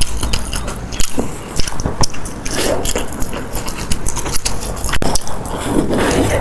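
Close-miked eating: a person biting and chewing crunchy food, with many irregular crisp crackles.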